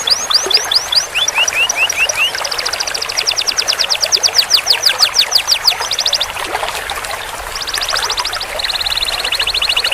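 Domestic canary singing a run of long rolls. Each trill of rapid, evenly repeated high notes is held for a second or two before the song switches to another, some made of quick downward sweeps and others of short steady notes.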